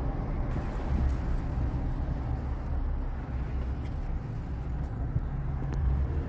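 A car being driven at low speed: steady low engine and road rumble.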